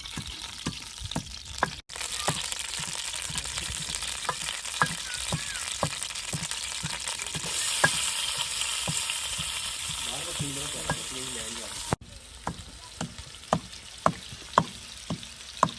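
Food frying and sizzling in hot oil in a pan, stirred with a metal spoon that clinks against the pan many times. The sizzle is loudest through the middle and drops off sharply near the end, while the clinks go on.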